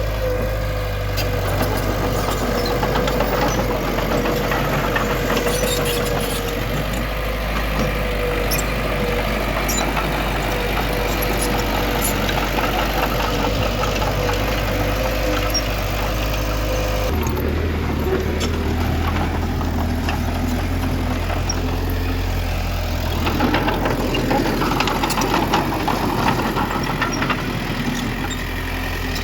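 Diesel engine of heavy earthmoving machinery running steadily, with scattered light clicks and rattles; the engine's low hum changes abruptly a little over halfway through.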